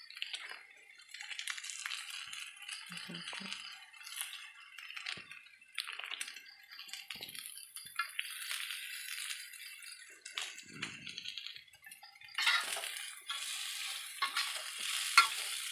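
Tempe pieces sizzling and crackling in hot oil in a wok, with scattered light clicks. About twelve seconds in it gets louder as a metal spatula starts stirring and scraping the pieces around the pan.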